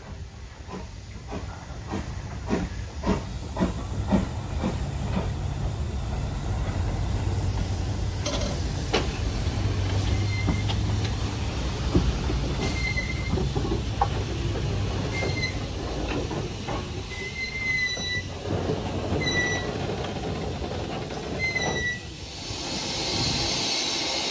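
Heritage railway train moving through the station: a run of knocks and clicks at first, then a steady low rumble with short wheel squeals about every two seconds, and a hiss near the end.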